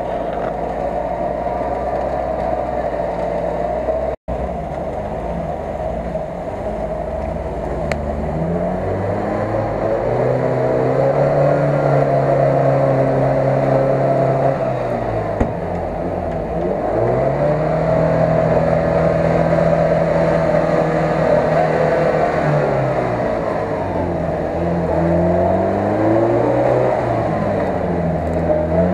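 UAZ-469 off-roader's engine revving as it pushes through deep mud, the pitch climbing, holding steady for a few seconds, then dropping, several times over. The sound cuts out for an instant about four seconds in.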